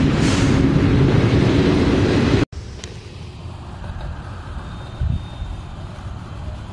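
Double-stack container freight train rolling past close by: a loud, steady rumble of wheels on rail with a steady hum, cut off abruptly about two and a half seconds in. A much quieter low rumble follows.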